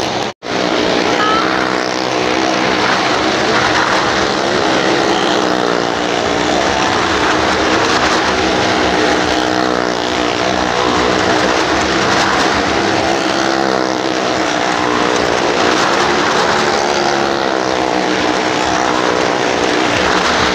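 Car and motorcycle engines running hard as they circle the vertical wall of a Well of Death ride, a loud, steady engine drone with a brief gap about half a second in.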